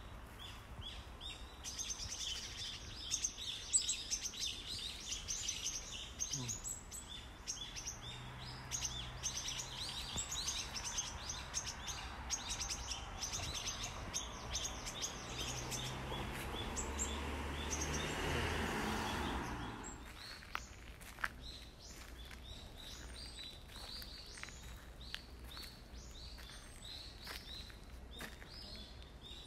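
Small wild birds chirping and calling over and over. A rushing noise with a low hum builds up beneath them and stops suddenly about two-thirds of the way through.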